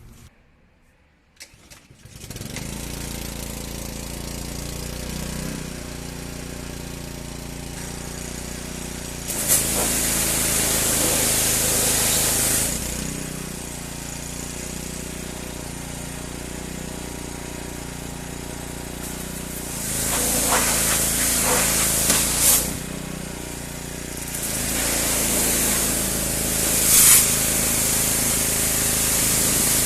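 A motor starts about two seconds in and runs steadily while a nozzle sprays in three long bursts of loud hissing, as the mower is being cleaned off.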